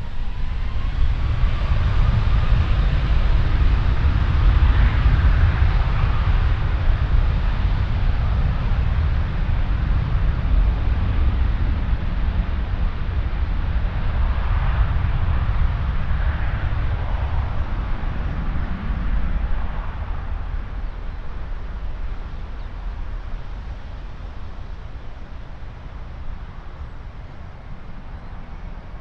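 Jet airliner passing: a deep engine rumble with a faint rising whine near the start, slowly fading away over the last several seconds.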